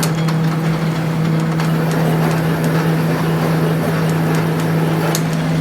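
A workshop machine running with a steady hum and scattered light clicks.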